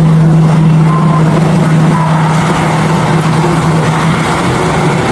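Aircraft engines running loudly, a steady low hum over a broad roar that eases slightly near the end.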